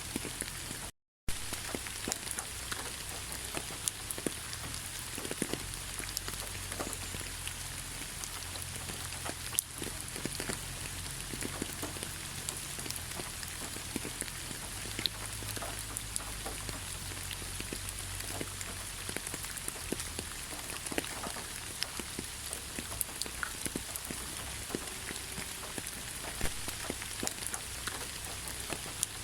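Steady rain falling through a thick pine forest, an even hiss dotted with many separate drops striking close by. There is a brief cut to silence about a second in.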